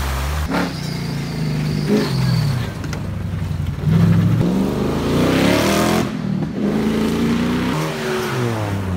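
Off-road 4x4 engines revving and accelerating over dirt, in several short abrupt cuts. One engine's pitch climbs steadily from about four seconds in to about six, then cuts off.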